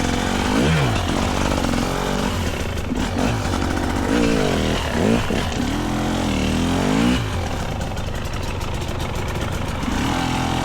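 GasGas EC300's two-stroke single-cylinder dirt bike engine revving up and down with the throttle, with a run of quick blips from about four to seven seconds in, then settling to a steadier, lower note.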